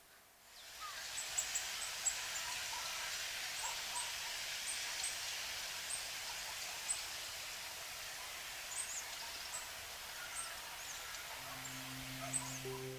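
Outdoor country ambience: a steady hiss with scattered short, high bird chirps and calls. Near the end, soft music with long held tones comes in.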